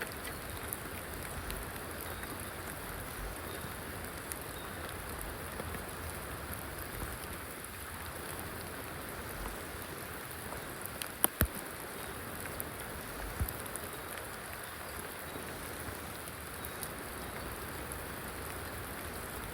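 Steady rain falling, a continuous hiss dotted with small drop ticks. Two sharp clicks come close together a little past the middle.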